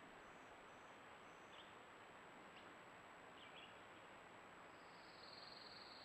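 Faint bird chirps: a few short separate notes, then a buzzy trill near the end. They sit over steady hiss and a faint steady high-pitched tone.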